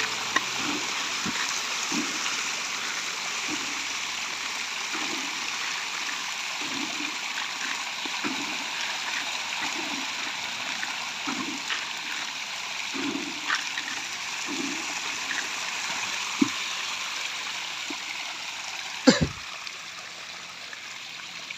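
Steady rush of water running and trickling into a fish pond, with a low gurgle about every second and a half. One sharp knock about nineteen seconds in.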